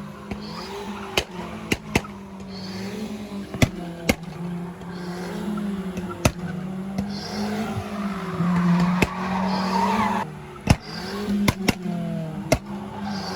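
A car drifting, its engine held high in the revs with the pitch wavering as the throttle is worked, tyres squealing loudest about eight to ten seconds in. Sharp cracks come at irregular moments throughout.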